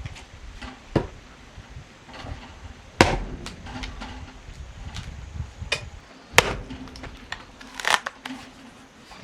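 Irregular sharp blows of a tool striking wood, one to three seconds apart, with fainter knocks between.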